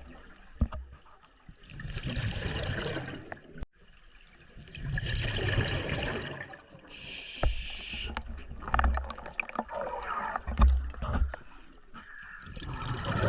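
Scuba diver breathing through a regulator underwater: four bursts of exhaled bubbles gurgling, with one short hissing inhale about seven seconds in.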